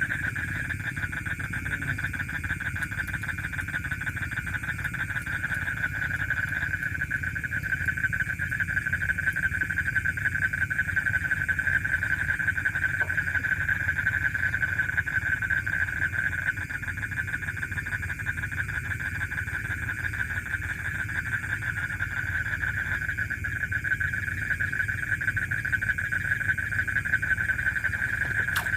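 A dense night chorus of frogs calling without a break, heard as a high, rapidly pulsing trill, over a steady low rumble.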